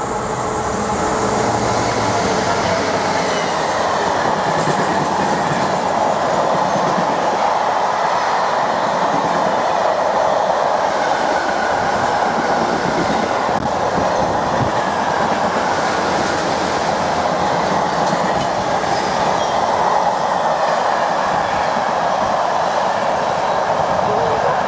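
Freight train passing at speed: a loud, steady noise of wagon wheels running on the rails that swells over the first couple of seconds and then holds.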